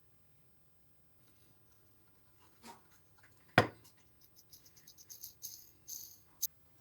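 A sharp knock about three and a half seconds in, then a run of light clicks and scrapes, like small objects being handled.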